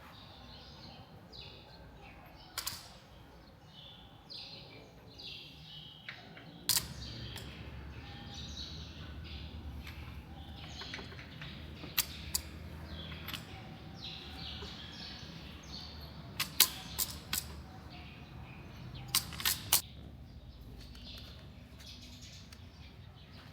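Small birds chirping over and over, with sharp knocks scattered through, several in quick succession near the end. A low steady hum comes in about a quarter of the way through.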